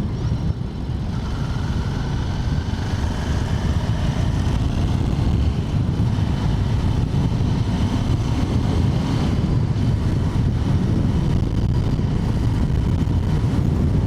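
Ducati Multistrada motorcycle on the move, its engine rising in pitch as it accelerates for the first few seconds, under a steady heavy rumble of wind on the rider's microphone.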